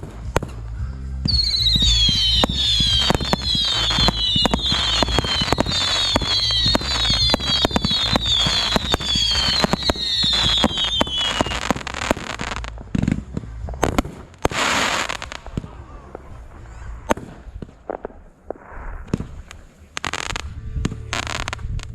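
Fireworks going off in rapid succession: a dense crackle of bangs and pops over a low rumble, with many high whistles each sliding slightly downward for about ten seconds. A hissing burst follows, then scattered pops thinning out toward the end.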